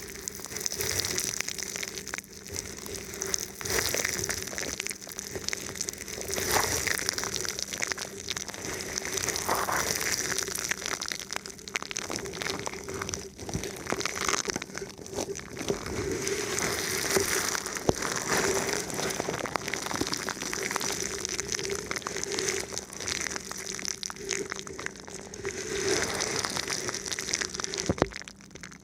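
Thin plastic film wrapped over a microphone being rubbed and touched: continuous close crinkling and crackling full of small clicks, rising and falling in waves, with a steady low hum underneath.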